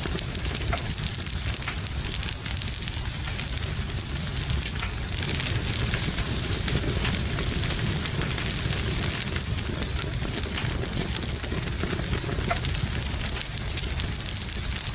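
Wood fire crackling, with many small scattered pops, over a steady hiss of rain and a low rumble.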